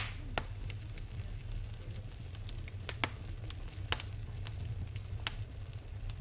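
Wood fire burning in a fireplace, crackling with scattered sharp pops over a low steady rumble.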